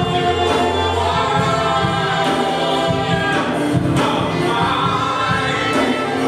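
Gospel worship music with a choir singing, steady and sustained.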